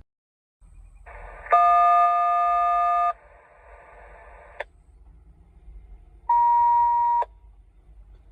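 Railroad radio heard through a scanner: radio hiss with a loud, steady dual-tone (DTMF-style) beep lasting about a second and a half, cut off with a squelch click, then a shorter single-pitch beep about six seconds in, also ending in a click. These are the access tones a crew keys to call the dispatcher's base station.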